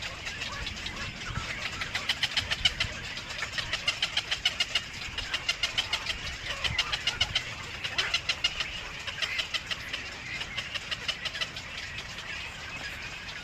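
Nestling birds cheeping, rapid high chirps repeated several times a second in waves that swell and ease off, over a faint low rumble.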